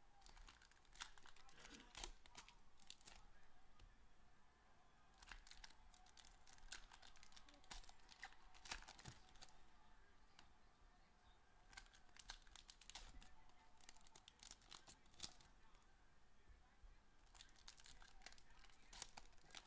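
Faint crinkling and tearing of trading card pack wrappers as hard-to-open packs are worked open by hand, with many small irregular crackles.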